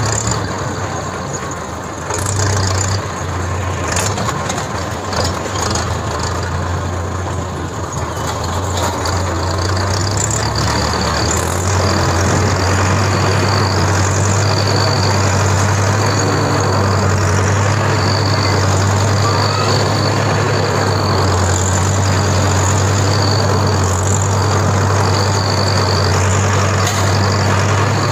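Tractor engine running steadily, growing louder about ten seconds in and then holding. A faint high chirp repeats about every two seconds in the second half.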